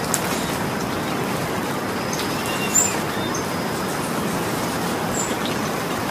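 Steady rain falling, an even hiss of drops on surfaces, with one sharp tap of a drop a little under three seconds in and a few faint short high chirps.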